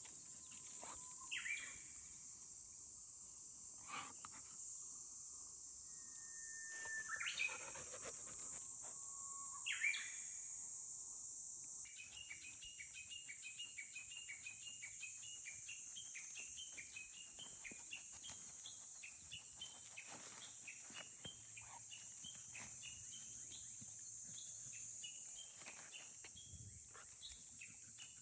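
Wild birds calling over a steady high insect drone. Scattered separate calls come first; from about twelve seconds in, one bird repeats a short call about two or three times a second.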